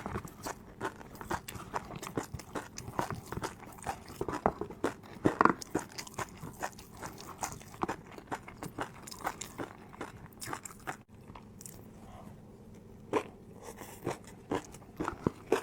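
Close-miked eating of crispy fried noodles: rapid crunching bites and chewing, loudest about five seconds in, with a short lull about two-thirds through.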